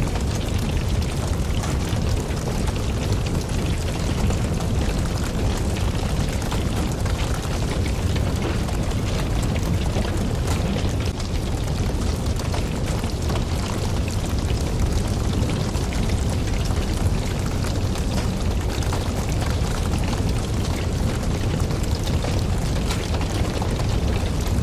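Campfire burning: a steady low rumble of flames with many small crackles and pops scattered throughout.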